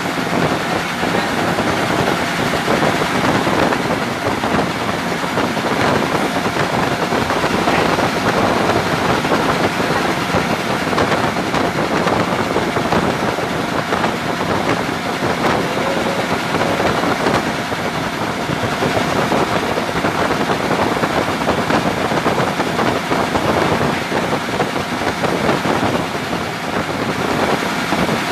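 An engine running steadily: a loud, even drone that holds the same speed throughout.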